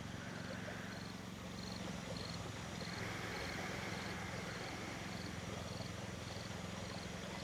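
Quiet background: a steady low hum with a faint high chirp repeating evenly, somewhat under twice a second.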